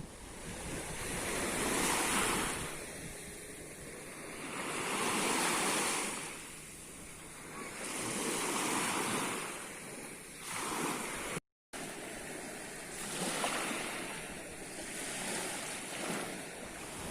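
Sea waves washing onto the shore, the surf swelling and fading every three to four seconds. The sound is briefly cut off about eleven seconds in.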